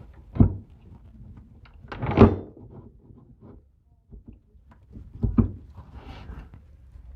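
Three loud knocks and clunks with small taps and scrapes between, from work being handled on a wooden work table: one about half a second in, a longer scraping clunk around two seconds, and another just after five seconds.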